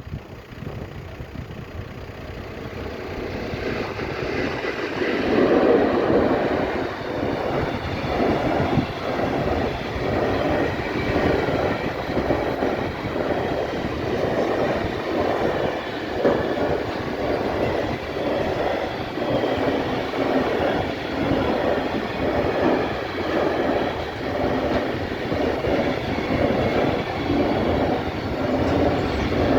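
Freight train passing close by: an ET41 'byk' electric locomotive approaches, growing louder over the first few seconds. It is followed by a string of gas tank wagons whose wheels clatter over the rail joints in a steady, even rhythm.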